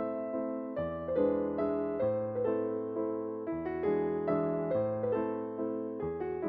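Background solo piano music: a light, moderate-tempo classical-style dance piece, its bass notes struck about once a second under a running melody.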